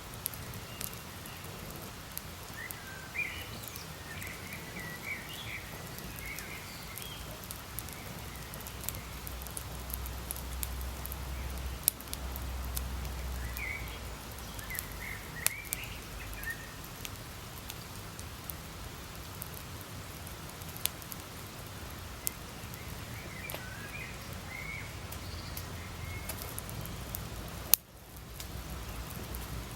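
Campfire crackling, with sharp pops scattered irregularly over a low steady rush, and one louder snap near the end. Short runs of high chirping come and go.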